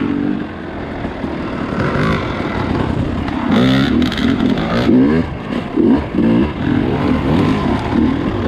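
Dirt bike engine being ridden off-road: a steadier run at first, then from about three and a half seconds in its pitch rises and falls again and again as the throttle is worked.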